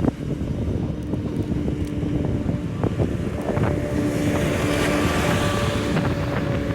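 Wind buffeting the microphone while riding an electric unicycle, with a steady faint hum. About four seconds in, a rushing hiss swells and fades.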